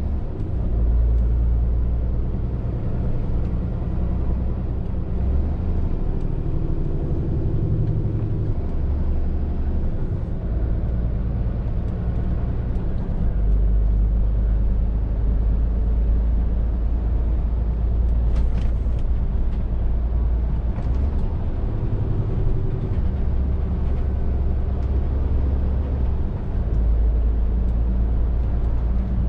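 Scania R450 lorry's six-cylinder diesel engine running on the move, a steady low drone that shifts in pitch and level every few seconds as revs and load change.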